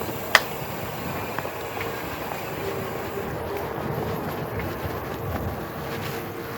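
E-bike riding noise: tyres and wind, with a steady whine from the rear hub, which the other rider calls annoying and says is heard all the way through. One sharp click comes just after the start.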